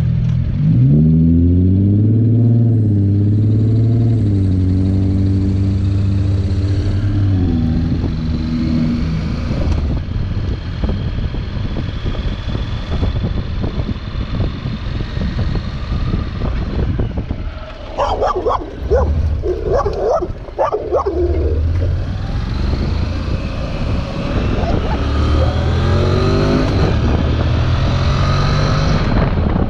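Motorcycle engine accelerating, its pitch rising in the first few seconds and again near the end, with wind on the microphone. Midway a dog barks several times in quick succession over the engine.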